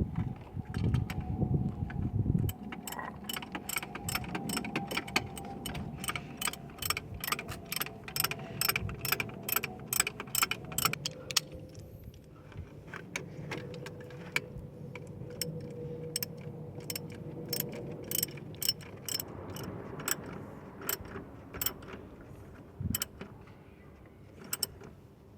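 Hand ratchet wrench clicking steadily, about four clicks a second, as a bolt is wound in, with some knocking and handling noise in the first couple of seconds.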